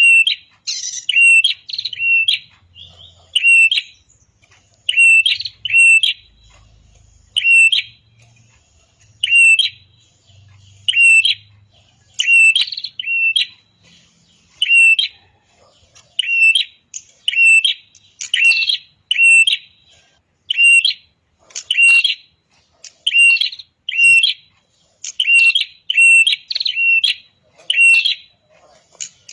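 Prenjak (red-headed prenjak) songbird calling loudly, repeating short sharp high chirps singly and in quick pairs and triplets, about one to two a second.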